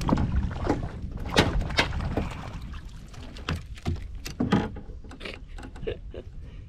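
Irregular knocks and thuds against a kayak's hull, a dozen or so at uneven spacing, the loudest about a second and a half in and again about four and a half seconds in, over a low rumble of wind noise.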